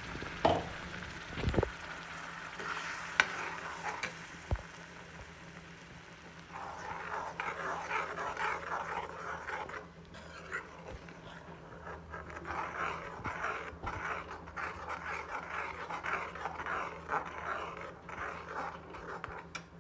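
Thick tomato-onion masala paste cooking down in butter and oil in a metal kadhai until the oil separates, sizzling and spattering as a spoon stirs and scrapes through it. The sizzling grows louder about six seconds in. A few sharp clicks of the spoon against the pan come in the first few seconds.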